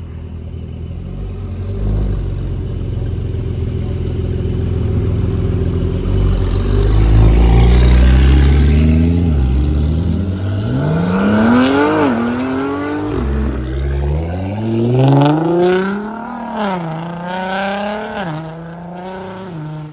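A car engine revving hard as the car accelerates, growing louder over the first several seconds. In the second half the engine pitch climbs and drops sharply again and again, like a series of hard revs or quick gear shifts.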